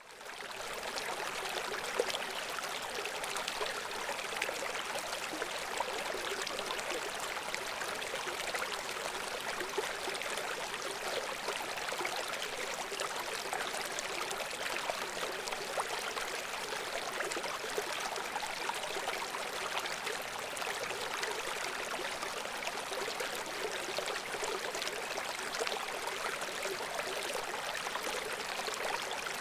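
Babbling brook flowing steadily: a constant, even rush of running water that fades in over the first second.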